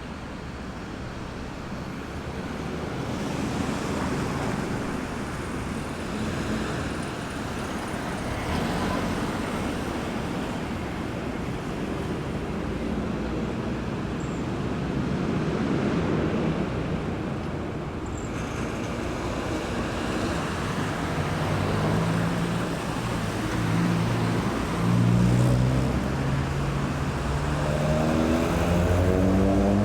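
Steady road traffic: cars passing continuously, their tyre and engine noise swelling and easing. In the last third a heavier vehicle's engine runs low and close, then rises in pitch near the end as it accelerates away.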